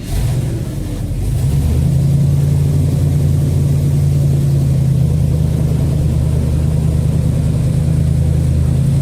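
Tour boat's engine opening up suddenly, climbing over the first couple of seconds, then running steadily under way.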